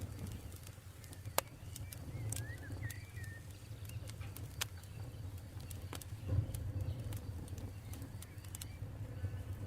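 Campfire burning with a steady low rumble and scattered sharp crackles and pops, the loudest about a second and a half in and again past the four-second mark. A bird chirps briefly a couple of seconds in.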